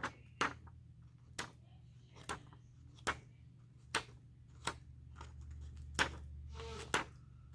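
A series of short, sharp light clicks or taps, about one a second and not quite evenly spaced, over a faint steady hum.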